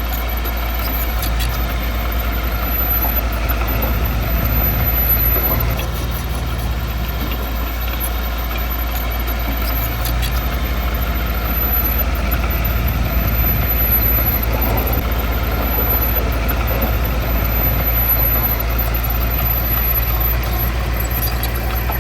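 Heavy diesel engine of earthmoving machinery running steadily, a low, even drone.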